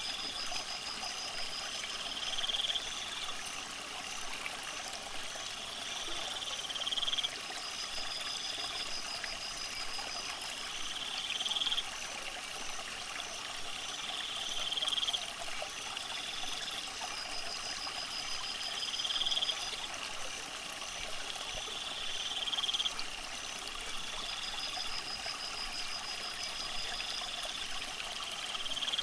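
Steady trickling water from an aquarium, with high, rising chirps every few seconds and a faster pulsed trill above them.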